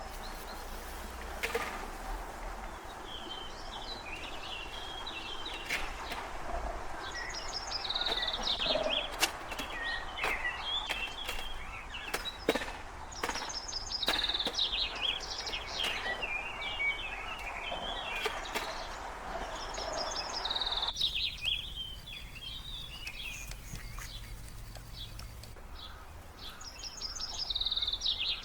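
A songbird singing a short chirping phrase again and again, about every six seconds, with scattered clicks and knocks. A steady background hiss drops away about two-thirds of the way through.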